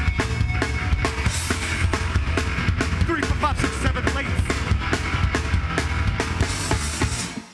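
Live rock band playing loud, with a fast drum-kit beat driving it, breaking off abruptly near the end.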